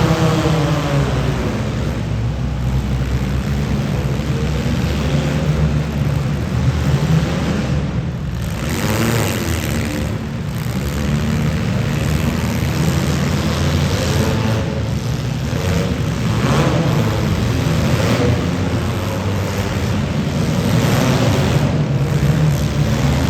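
Several demolition derby cars' engines running and revving together, rising and falling, with a few short knocks or bangs among them.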